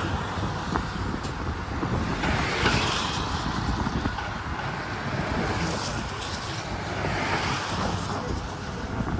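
Z3-class tram running, heard from on board: a steady low rumble of wheels on rail with a hiss over it that swells twice, about two seconds in and again about seven seconds in.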